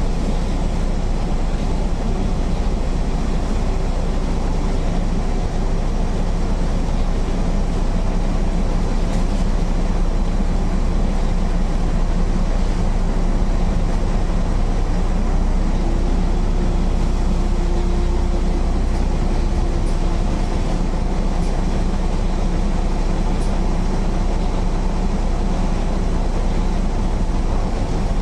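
MAN NL 262 city bus under way, its diesel engine and ZF 5 HP 600 automatic gearbox running steadily. A faint whine comes in about halfway through.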